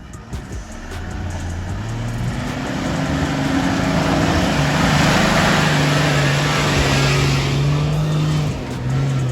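Toyota LandCruiser engine pulling up a hill under load. Its pitch rises over the first couple of seconds and then holds steady, with the noise of the vehicle growing loudest midway and easing off near the end.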